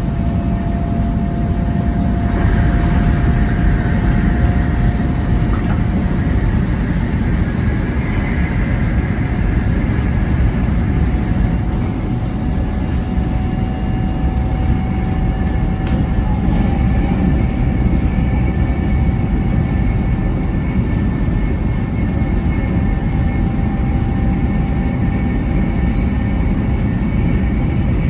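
700 Series Shinkansen running at speed: a steady rumble of wheels on the track, with a faint whine of thin tones slowly rising in pitch.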